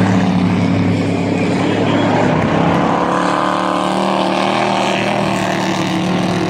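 Engines of several dirt-track race trucks running hard around a quarter-mile dirt oval, blending into one loud, steady drone with the engine pitches rising and falling as the trucks go through the turns.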